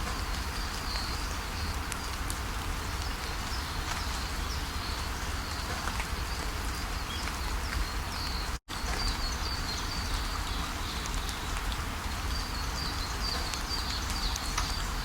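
Steady rushing of a waterfall with small birds chirping high above it. The sound cuts out completely for an instant about eight and a half seconds in.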